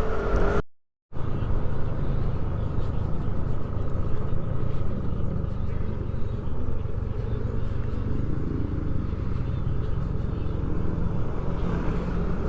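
Motorcycle engine and wind noise heard while riding, a steady low rumble with a faint steady whine, broken by a brief drop-out to silence about a second in.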